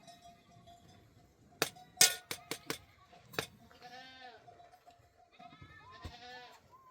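Livestock bleating: two wavering calls, about four seconds and six seconds in. Before them come a handful of sharp knocks and clicks, the loudest about two seconds in.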